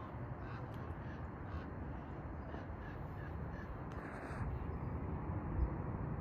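A bird calling repeatedly, with a quick run of about five short calls around three seconds in, over a steady low background rumble.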